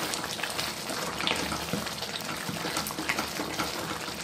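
Tomatoes frying in oil in a pan: a steady sizzle with many small pops and spatters, while a spatula stirs and mashes them against the pan.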